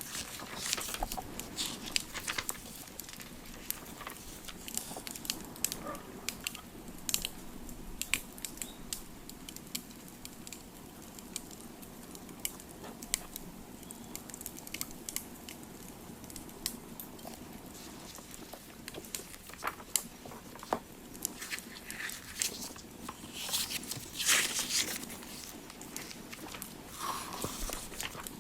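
Crackling wood fire: irregular small pops and snaps over a steady low background, with a few louder noises, the loudest about 24 seconds in.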